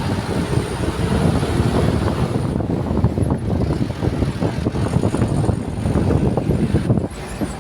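Loud, low vehicle rumble of road traffic, uneven throughout, dropping suddenly in level about seven seconds in.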